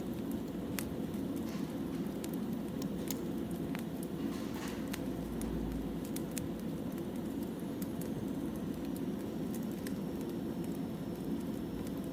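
Wood fire burning: a steady low rush with irregular sharp crackles and pops from the burning logs.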